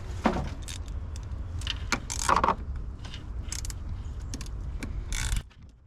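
Metal hand tools clinking and scraping as a wrench works on the battery terminal bolts, in irregular clicks. A steady low rumble runs underneath and cuts off suddenly about five seconds in.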